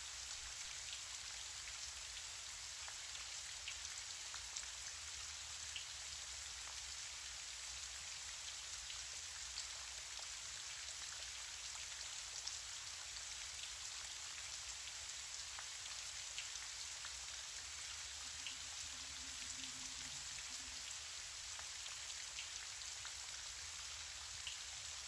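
Steady rain: an even hiss with scattered small drop ticks, continuous and unchanging.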